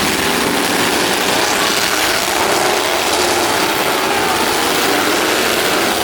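Demolition-derby truck engines running loudly, their pitch wavering up and down over a dense rattling mechanical noise.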